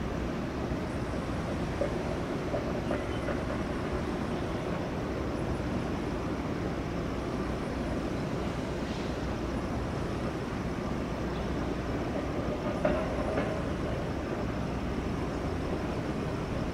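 Freight train hauled by a TRA E300-class electric locomotive (E338) rolling past, giving steady wheel-on-rail noise with an occasional click.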